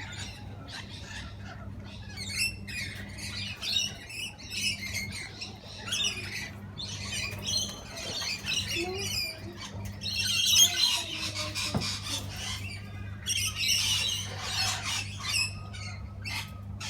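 A group of parrots squawking and chattering continuously, with louder stretches of squawking about ten and fourteen seconds in. A faint steady low hum runs underneath.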